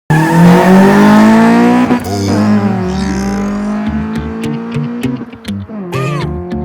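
A car engine revving up, its pitch rising, for about the first two seconds, then electronic background music with a steady beat.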